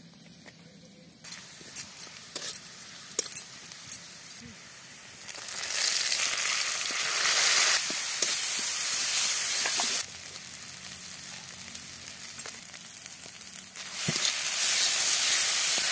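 Ground masala paste frying in hot oil in a black iron kadai, with scattered scrapes and clicks of a metal spatula. The sizzling grows loud about five seconds in, drops back around ten seconds, and surges again near the end.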